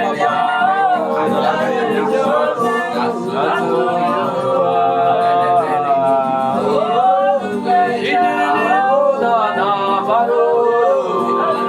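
Wordless, melismatic worship singing: a voice sliding and wavering between notes over sustained keyboard chords.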